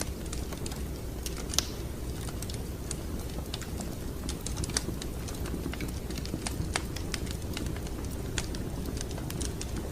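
Wood fire crackling in a fireplace: irregular sharp pops and snaps over a steady low rumble of the flames, with the loudest pops about one and a half seconds in and near the middle.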